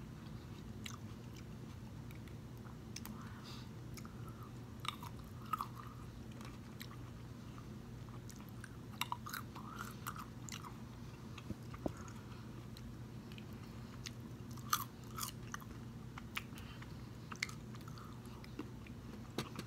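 Close-miked chewing and biting of green grapes, with short crisp crunches and mouth clicks scattered through, over a low steady hum.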